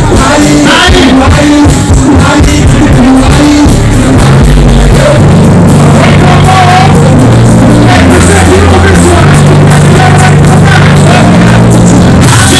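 Loud live music with singing over a heavy bass line; about five seconds in the bass settles into long held notes.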